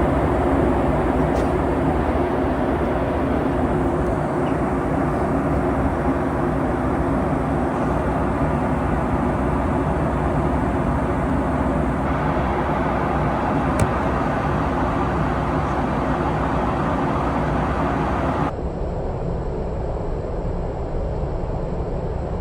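Steady cabin drone inside a Boeing 737 MAX 8 airliner in flight, from engine and airflow noise with a low hum. About eighteen seconds in, the sound turns duller.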